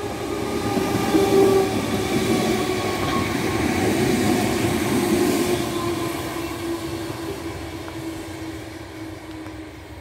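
Merseyrail electric passenger train passing close by. Its running noise builds, peaks, then fades as it goes away, with a steady whine that drops slightly in pitch.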